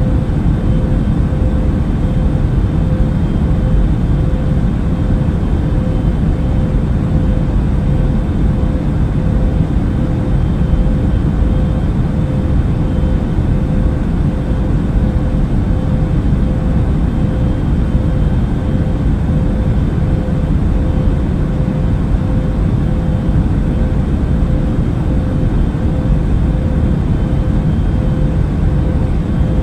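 Airliner cabin noise in flight: a steady low rumble of engines and airflow with a faint constant hum, unchanging throughout.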